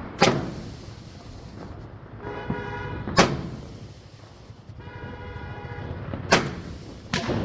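Diwali firecrackers going off: four sharp bangs, the last two close together. Between the bangs come two steady pitched tones of about a second each.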